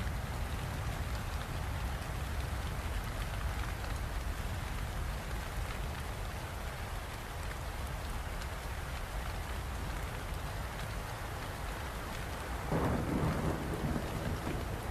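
Steady rain falling, with thunder rumbling low underneath and a louder burst of thunder about two seconds before the end.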